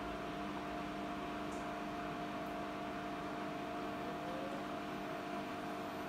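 Siemens iQ300 8 kg, 1000 rpm front-loading washing machine spinning a load of wet laundry: a steady motor whine over the rush of the turning drum, with a short rising tone about four seconds in. This is the machine's normal spin noise.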